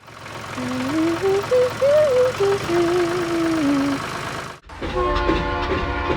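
A rumbling vehicle-like noise with a short tune in stepping pitches over it, cut off abruptly; about a second from the end, background music with a steady beat takes over.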